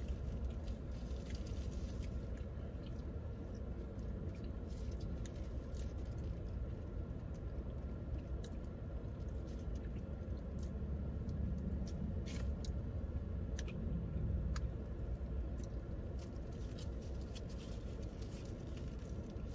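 Close-up chewing and wet mouth sounds of a person eating a burrito, with scattered small clicks and crinkles, over a steady low hum inside a car.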